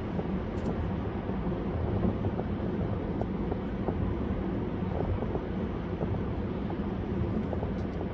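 Steady road and tyre noise of a car driving at highway speed, a continuous low rumble with faint small ticks.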